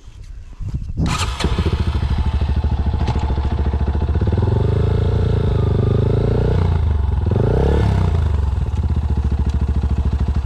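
Yamaha XT250's single-cylinder four-stroke engine starting about a second in, then running and being revved up and down twice before cutting off at the end. The bike runs but won't drive: the riders believe the clutch is burnt out.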